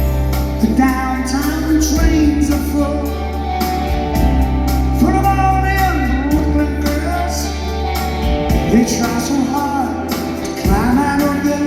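A live rock band playing a slow song, with a lead voice singing over held bass notes, recorded in an arena concert.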